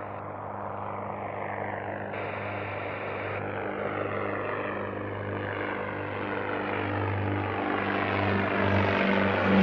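Propeller aircraft engine running with a steady low drone, growing gradually louder as the plane approaches.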